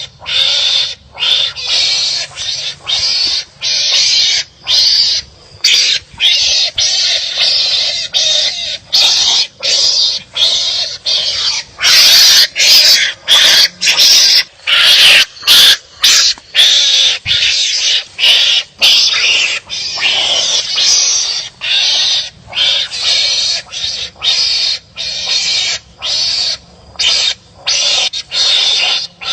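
Wild animals calling harshly at each other in rapid short bursts, about two a second, loudest about halfway through.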